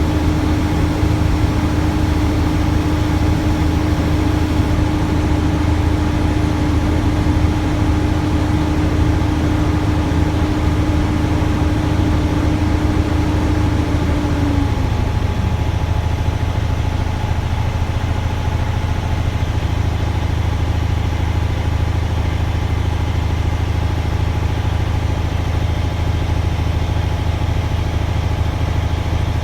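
Heavy truck's diesel engine running steadily at raised RPM while the air compressor builds brake air pressure toward governor cut-out. A steady whine over the engine drone stops about halfway through with a short downward slide, while the engine keeps running.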